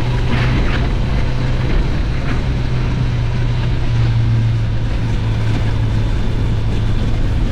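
Heavy motorcycle engine running steadily, a constant low hum.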